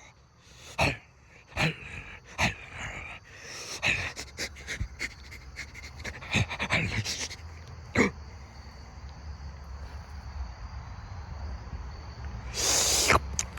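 Creature sound effects of a monster transformation: short panting and snorting gasps, one after another, over a low rumble that sets in about four seconds in, with a loud harsh burst near the end.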